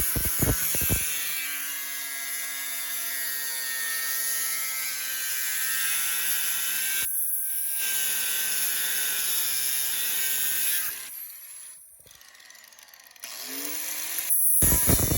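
High-speed power cutting tool whining as it cuts through a seized swingarm pivot bolt, its pitch sagging and recovering under load. It stops briefly about halfway through, dies away about three-quarters of the way in, then starts up again near the end.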